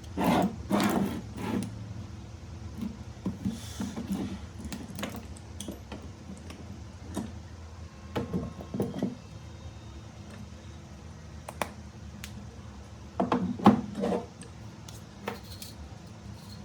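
Scattered knocks and clicks of small hard objects being handled, bunched into three clusters, over a steady low hum.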